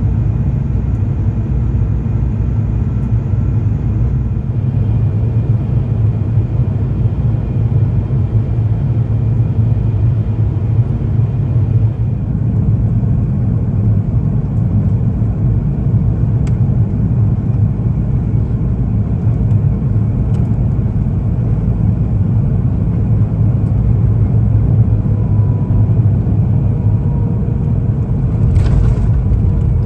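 Airbus A350-900 cabin noise on the landing approach: a steady, deep rumble of the Rolls-Royce Trent XWB engines and airflow around the fuselage. A brief hiss comes in near the end.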